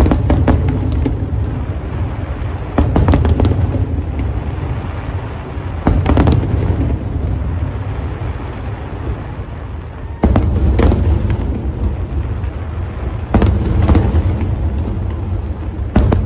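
Aerial fireworks going off: five heavy booms a few seconds apart, each followed by crackling and a low rumble that carries on between the bursts.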